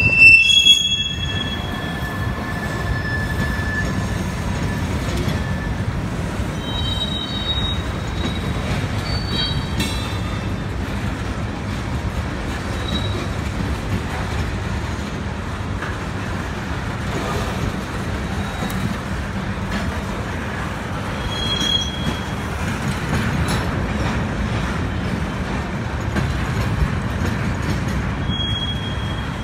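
Freight train cars, covered grain hoppers nearest, rolling past on the rails with a steady low rumble. High wheel squeals come and go several times, the loudest in the first second.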